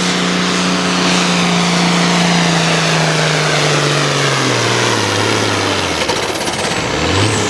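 Turbocharged diesel engine of an altered farm pulling tractor running flat out under load while dragging the weight sled. From about three seconds in, the engine note sags lower as the tractor bogs down and stops, and near the end there is a brief rev while a high whistle falls away.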